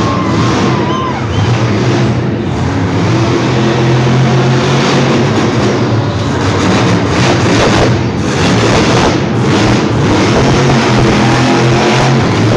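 Monster truck engine running loud under heavy throttle, a steady low drone with a dense roar over it.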